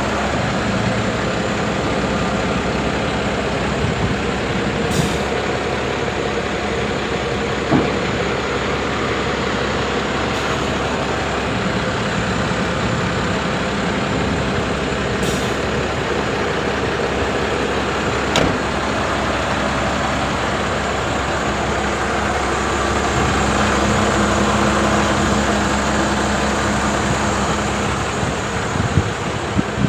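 Renault Midlum 220 dCi truck's diesel engine running steadily, with a few short clicks along the way. About two-thirds of the way in it grows a little louder for a few seconds.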